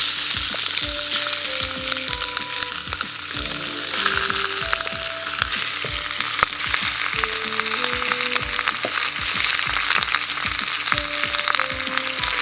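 Halved quail frying in hot butter in a kazan: a steady sizzle dotted with small crackling spits. A soft melody plays faintly underneath.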